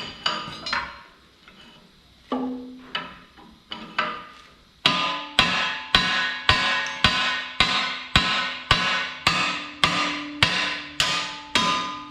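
Hammer blows on a steel bar driving out the pin of a machine jaw, each strike ringing metallically. A few irregular blows, then about five seconds in, a steady run of strikes at about two a second.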